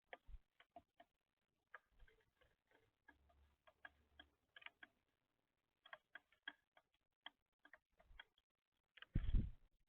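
Faint, irregular ticking and tapping of birds' beaks pecking at seed on a bird feeder. A louder, dull thump comes near the end.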